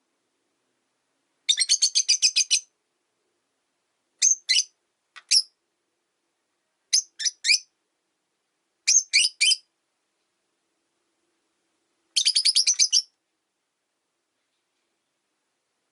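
Rosy-faced lovebirds chirping: sharp, shrill calls in short groups of two or three, with two fast chattering runs of about eight chirps, one near the start and one near the end, and silent gaps between.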